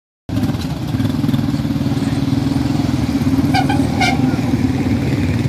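Motorcycle engines running steadily with a close, dense low rumble. Two short beeps come about three and a half and four seconds in.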